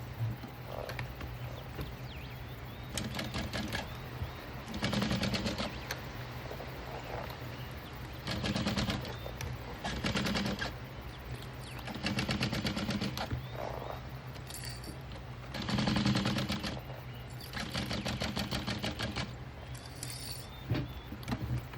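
Juki DU-1181N walking-foot industrial sewing machine stitching in about seven short runs of rapid needle ticks, each lasting a second or so, with pauses between them over a steady low hum.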